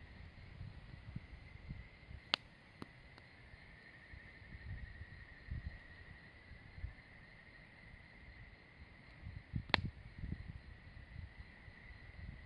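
Wood campfire with a soft low rumble and two sharp pops, one about two seconds in and another late on, while an insect trills steadily in the background.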